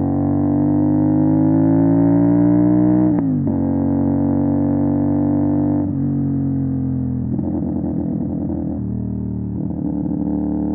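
CFMOTO 450 SR's parallel-twin engine through an MSH G6 full-system exhaust, rising in pitch under acceleration and then dropping sharply about three seconds in as it shifts up a gear. Another drop near the middle marks a second upshift. A rough, uneven stretch follows before the note settles to a steady run.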